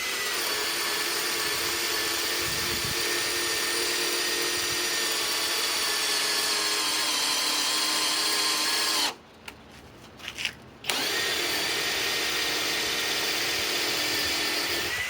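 Master Force brushless hammer drill driver running on speed 1, boring with a 3/4-inch spade bit, its motor whining steadily under load. It stops about nine seconds in, then starts again about two seconds later and runs until near the end.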